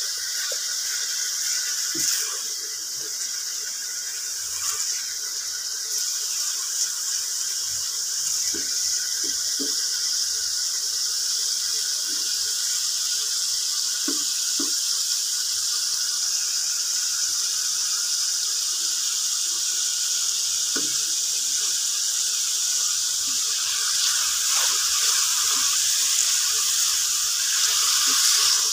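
Chicken handi gravy sizzling in a nonstick frying pan: a steady hiss, a little louder near the end, with scattered light ticks.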